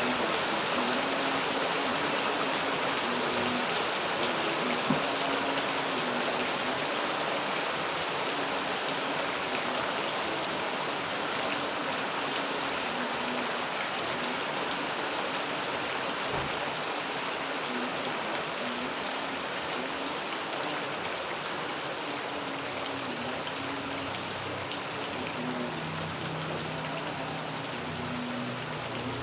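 Steady rain falling, an even hiss of drops with a faint low wavering tone coming and going underneath. A single sharp tick about five seconds in.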